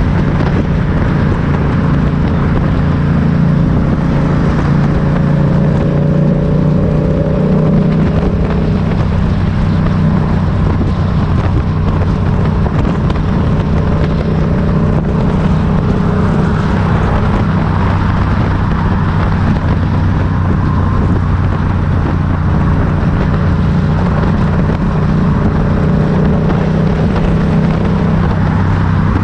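Motorcycle engine running steadily, its low pitch holding mostly level with a slight change about six to eight seconds in.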